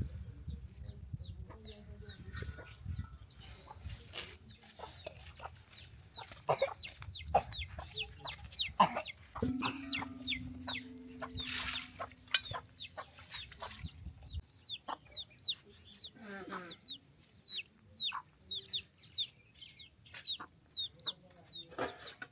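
Chickens peeping and clucking: a steady run of short, high, falling peeps, two or three a second, with scattered knocks and clicks among them.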